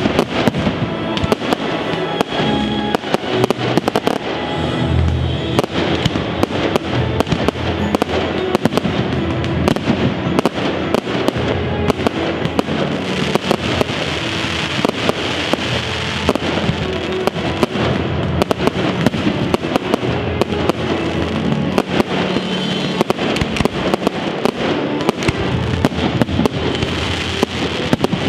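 Fireworks display: a dense, continuous run of bangs and crackling bursts, with music playing alongside.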